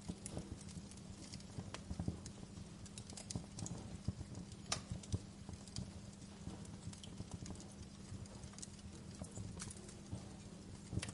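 Fire crackling: irregular sharp pops and snaps, a few louder than the rest, over a low steady rumble of burning flames.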